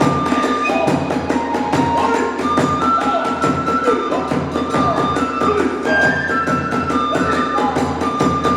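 Kagura hayashi ensemble playing: fast, steady drum strokes with clashing hand cymbals under a bamboo flute holding long high notes.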